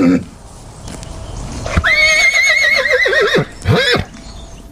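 A horse whinnying: one long quavering neigh, followed by a short call that rises and falls in pitch.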